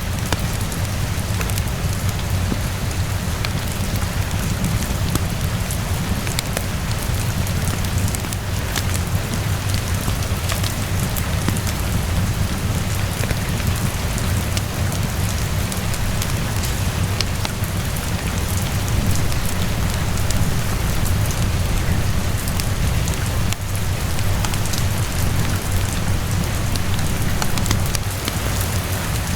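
Steady rainfall with scattered small crackles from a fireplace, over a low, even rumble.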